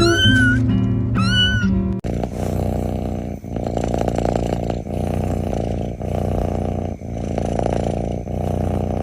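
A kitten meows twice, short high-pitched calls that rise and fall, over background music. About two seconds in, the meows give way to muffled music with a steady beat.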